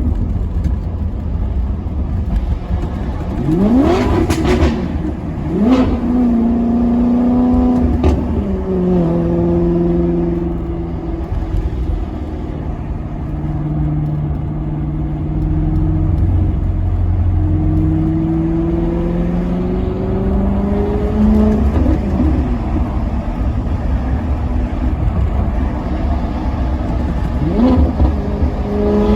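Maserati Quattroporte Sport GT's V8 engine, blipped on downshifts: quick revs sharply up and back about four, six and eight seconds in. Then it runs steadily with its pitch slowly sinking and climbing again, with more blips about twenty-two seconds in and near the end.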